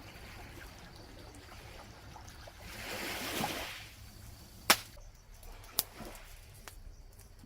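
A brief water-like rush that swells and fades about three seconds in, followed by two sharp clicks.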